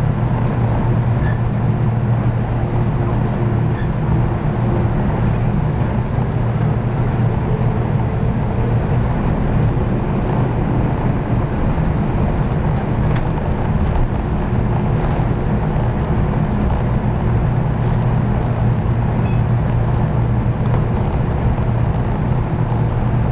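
Steady low rumble and hum inside the passenger car of a 485-series electric limited express train.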